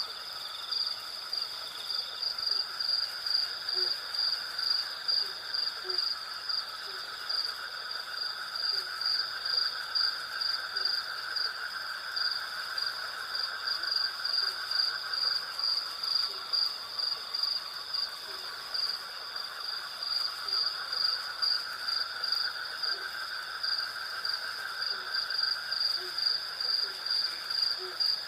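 Night insect chorus: crickets chirping in a steady high pulsing rhythm of about three chirps a second over a continuous lower buzzing trill. Faint short low notes repeat underneath.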